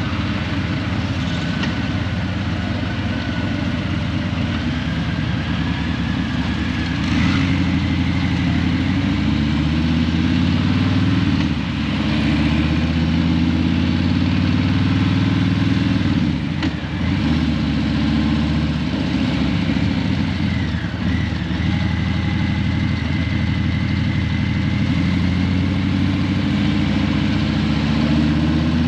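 Harley-Davidson Breakout 117's Milwaukee-Eight V-twin running at low revs through Vance & Hines Eliminator 300 slip-on mufflers, its note rising and falling a few times with the throttle.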